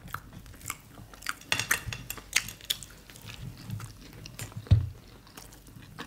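Close-miked chewing and mouth sounds of people eating soft agege bread, fried plantain and beans by hand, with irregular wet clicks and smacks. One short low thud about three-quarters of the way in.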